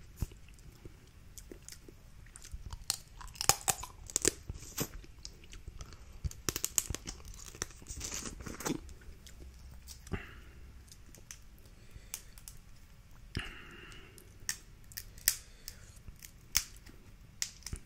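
Snow crab leg shells being cracked and pried apart by hand: scattered sharp cracks and crackling, busiest about three and a half seconds in and again between six and nine seconds.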